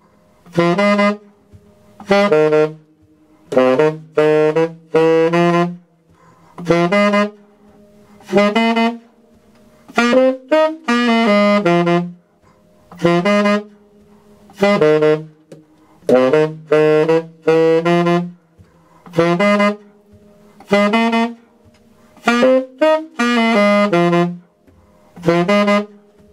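Solo tenor saxophone playing a repetitive, funky bass-line riff in the low register, short punchy phrases of a few notes each, separated by brief rests.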